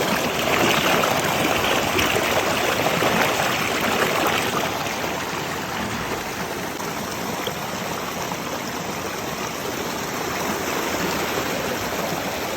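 Mountain stream running over rocks, a steady rushing of water. It is louder for the first four or five seconds, then settles a little softer.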